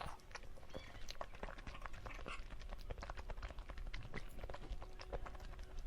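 Close-miked chewing and wet mouth clicks of someone eating a soft jelly dessert: a steady run of small, quick clicks and smacks.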